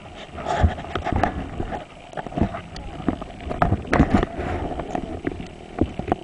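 Irregular knocks, bumps and rustling close to a helmet-mounted camera's microphone, as it is jostled and handled, over a low rumbling background.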